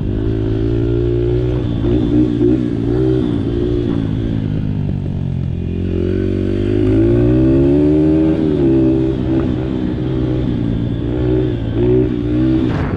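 Small Honda 50cc dirt bike's single-cylinder four-stroke engine running while riding, its pitch climbing as the throttle opens about halfway through and dropping back a couple of seconds later.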